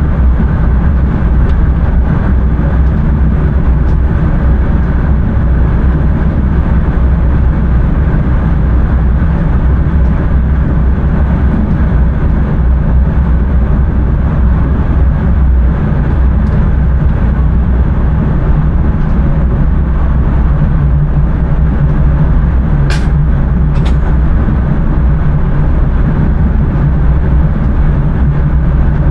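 Intercity train running at speed, heard from inside the driver's cab: a steady, loud low rumble. Two sharp clicks, about a second apart, come roughly three quarters of the way through.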